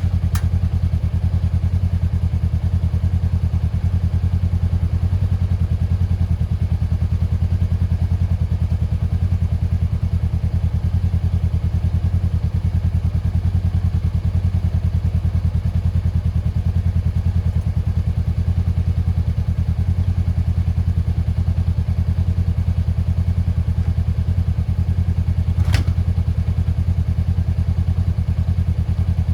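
Kick-started SL motorcycle engine idling steadily after starting, with an even, fast firing beat. A single sharp click sounds about 26 seconds in.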